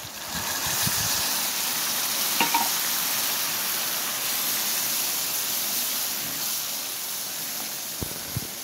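Boiled white urad lentils (mash daal) sizzling in hot oil and masala as they go into the pan, the sizzle jumping up right at the start and then holding steady while a wooden spatula stirs them, with a few low knocks of the spatula against the pan.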